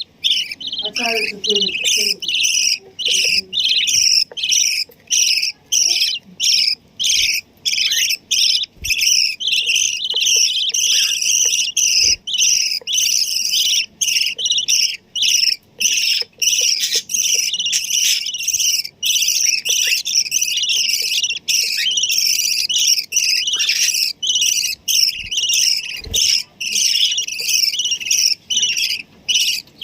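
Pet bird chicks giving shrill, rapid begging chirps without a break, in short runs about twice a second, as they wait to be fed grain by their parents.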